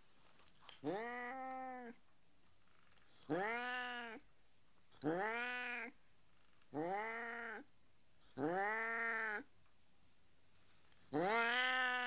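A tabby cat meowing six times, each meow about a second long and arching up then down in pitch, with one to two seconds between calls.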